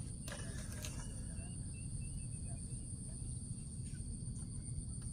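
Insects, crickets, chirring steadily in a high pitch over a low steady rumble, with a few clicks in the first second.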